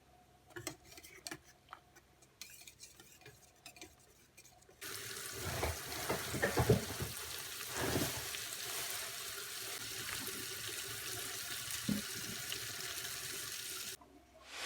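Kitchen tap turned on about five seconds in, water running steadily into the sink with a few knocks of dishes, after some soft clicks; the water stops shortly before the end.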